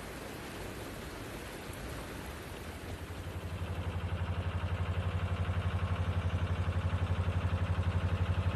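A narrowboat's diesel engine running with a rapid, even low throb. It comes in about three seconds in and grows louder, after a steady rushing hiss.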